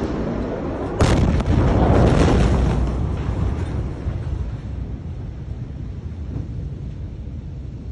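A massive explosion recorded on a handheld camera: a sudden blast about a second in, then a deep rumble that slowly dies away over steady background noise.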